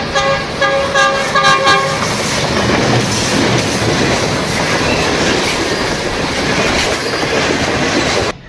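A passenger train's horn sounds for about the first two seconds, then the steady noise of the train running on the rails, which cuts off suddenly near the end.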